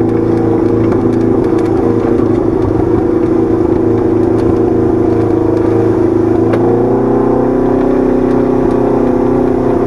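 Side-by-side UTV engine running steadily, its pitch rising a little in the last few seconds.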